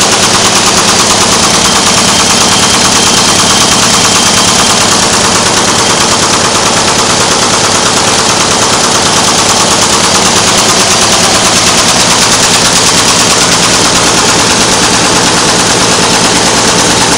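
Envelope-making machine running at speed: a loud, steady, rapid mechanical clatter of fast repeating strokes.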